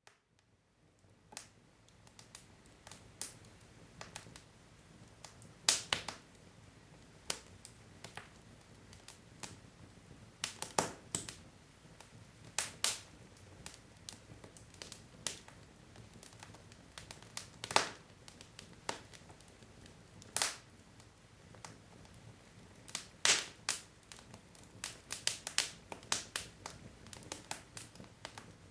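Wood logs burning in a fireplace, crackling with irregular sharp pops and snaps over a faint steady hiss, the pops coming thicker near the end.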